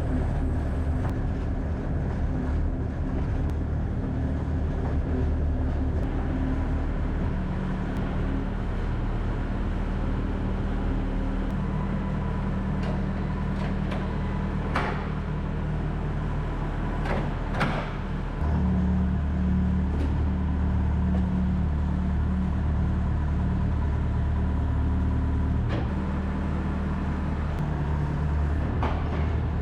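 A large engine running steadily, its low hum getting louder about two-thirds of the way through, with a few sharp knocks in the middle.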